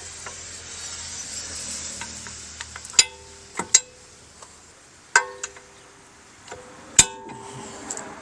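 Steel tractor drawbar being worked into place by hand: a scraping hiss at first, then several sharp metal clanks, each ringing briefly.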